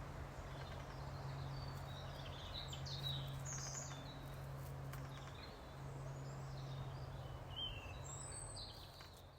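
Small birds chirping and calling in short bursts over a steady low hum and outdoor background noise.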